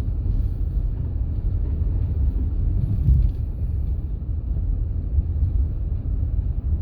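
Steady low rumble of tyre and engine noise heard inside a Honda Pilot's cabin while driving on a snow-covered street.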